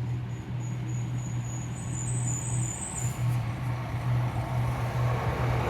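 An engine running with a steady low hum that slowly grows louder, with a faint high whine for a couple of seconds in the middle.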